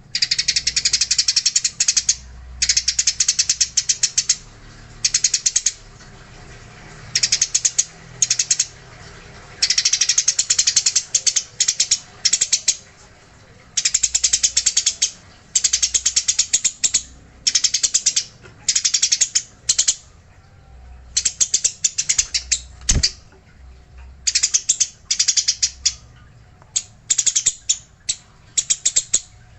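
Eurasian tree sparrows chattering in repeated bursts of rapid, harsh chirps, each burst lasting up to a couple of seconds with short pauses between: the excited fighting call that Indonesian bird keepers call 'gacor'.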